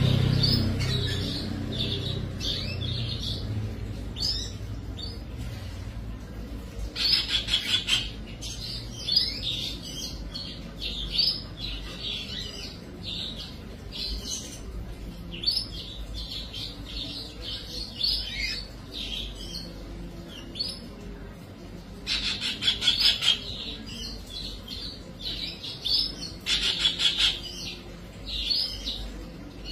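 Birds chirping repeatedly in short, high notes, with three louder rapid trills.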